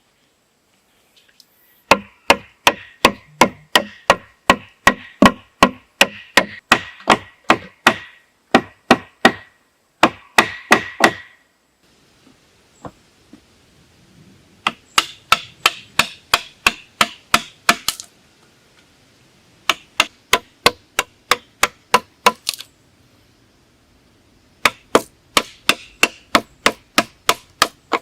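Repeated chopping blows of a tool on wood, about three a second, in four runs with short pauses between them.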